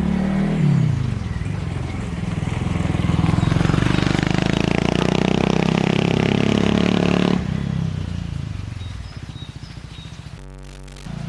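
Honda Monkey 125's single-cylinder four-stroke engine running through a Takegawa aftermarket exhaust, its pitch swinging up and down about a second in, louder in the middle, then dropping off suddenly about seven seconds in and running on more quietly.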